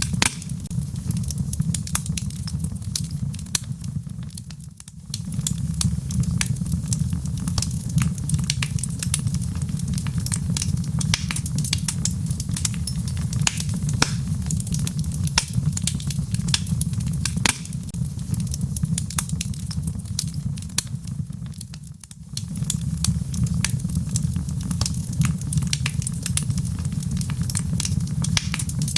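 Logs burning in a fireplace: a steady low rumble of flame with frequent sharp crackles and pops. The fire sound briefly fades and returns twice, about five seconds in and again near 22 seconds.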